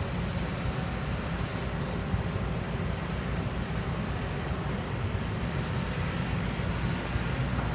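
Kobelco hydraulic excavator's diesel engine running steadily with a low rumble.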